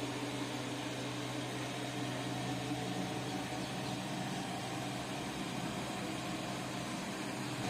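Steady machine hum with a constant hiss, with no change in pitch or level.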